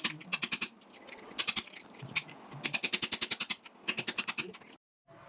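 Rapid runs of sharp clicks, about a dozen a second, in five or six bursts with short pauses between them, cut off abruptly near the end.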